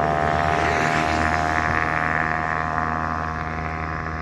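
Bajaj Pulsar 150 single-cylinder motorcycle at full throttle, its exhaust note holding a steady pitch as it rides away and slowly grows fainter.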